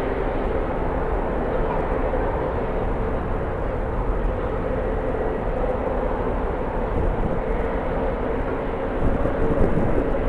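Jet airliner engines running steadily at an airport, with a constant tone in the noise, under the low rumble of strong wind on the microphone.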